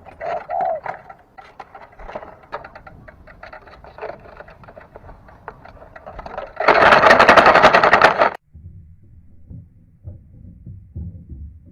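A dove gives a short coo about half a second in, over fast, faint ticking. About seven seconds in comes a loud burst of rough noise lasting about a second and a half, then only a faint low rumble.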